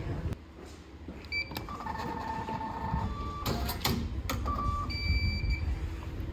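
Short electronic beep tones at several pitches over a low rumble, with a few sharp clicks near the middle.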